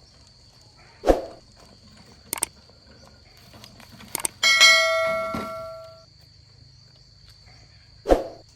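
Metalwork knocks and clicks, then a hard strike on a steel part that rings with a clear, bell-like tone and dies away over about a second and a half. Another dull knock comes near the end.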